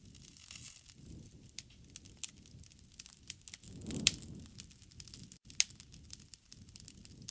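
Wood fire crackling with irregular sharp pops over a low rumble of flame; the loudest pop, with a brief swell of the rumble, comes about four seconds in.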